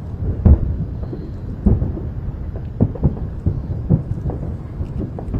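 Fireworks display: a string of deep booms from shells bursting, roughly one a second and the loudest about half a second and just under two seconds in, over a steady low rumble.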